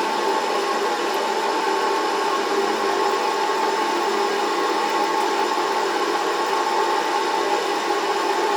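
A metalworking machine tool running steadily, its motor and drive giving a constant whine at an even pitch.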